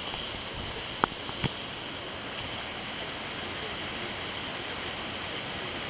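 Heavy tropical-storm rain falling steadily as an even hiss, with two sharp taps about a second in.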